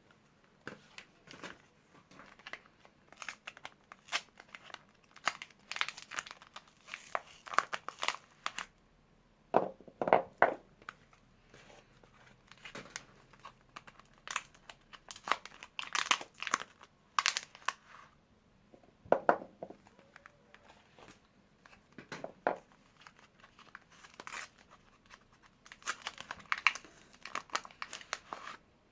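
Wrappers on bars of Duru soap being torn open and crinkled by hand, in irregular bursts of crinkling and tearing with short pauses between them.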